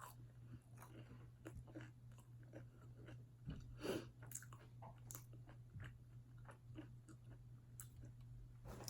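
Soft close-up chewing of a cheesy potato bite: quiet wet mouth clicks and smacks, with a slightly louder bite or crunch about three and a half seconds in. A faint steady low hum lies underneath.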